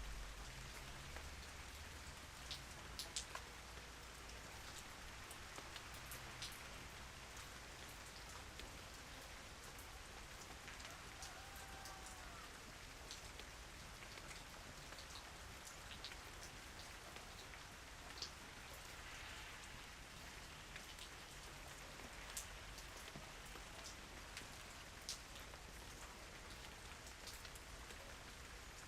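Steady rain falling, with scattered single drops tapping throughout.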